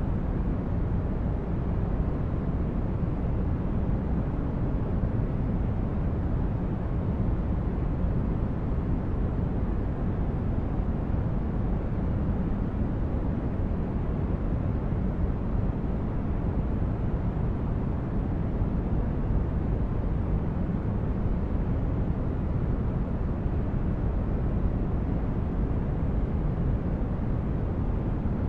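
Steady synthetic sleep-aid noise, deep and even, with most of its weight in the low end and little hiss, unchanging with no separate events.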